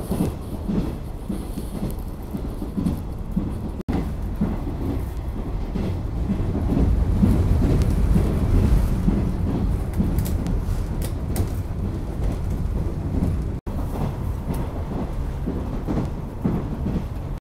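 Running noise inside a JNR 455-series express-type electric railcar in motion: a steady low rumble of wheels and bogies on the rails, swelling louder midway, with two split-second breaks.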